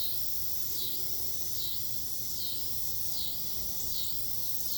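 Insects calling in a steady chorus, a high drone that dips and rises again in a regular rhythm a little faster than once a second.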